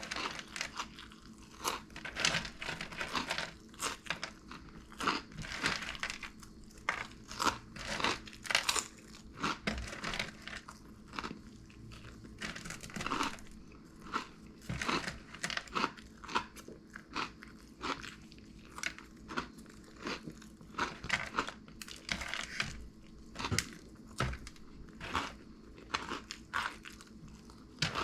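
A person chewing a mouthful of crunchy Flamin' Hot BBQ Cheddar Cheetos, with a steady run of irregular crunches, a few each second.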